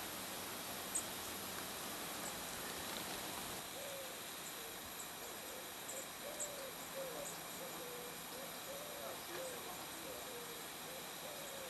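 A bird hooting low over and over, a string of short wavering calls starting about four seconds in, with a few faint high chirps of small birds above a steady hiss.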